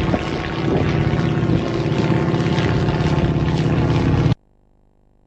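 Propeller aircraft engine running steadily. The sound cuts off abruptly about four seconds in, leaving a faint low hum.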